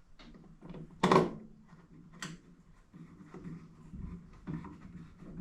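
Plastic interior trim piece being handled and pushed into place, with scattered light knocks and clicks; the loudest knock comes about a second in, and a sharp click a little after two seconds.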